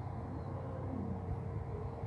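Low, steady outdoor rumble of distant traffic, with a faint steady hum and a few faint short pitched sounds over it.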